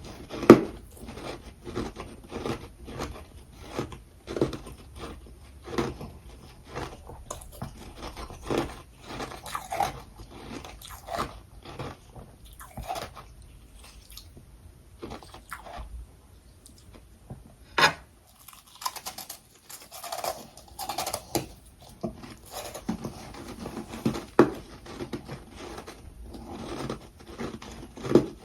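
Close-up crunching and chewing of frozen humidifier-grown freezer frost packed with crushed ice: repeated bites with crunching chews, a short lull about halfway through, and then more crunching.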